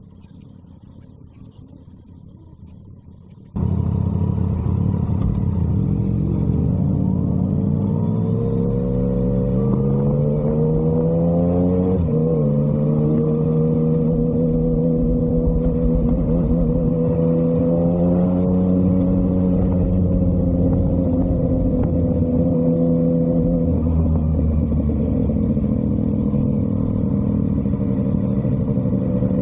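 Motorcycle engine and exhaust, close up from the rider's position: it cuts in suddenly about three and a half seconds in, rises in pitch as the bike accelerates, drops abruptly about twelve seconds in, then runs at a steady pitch while cruising.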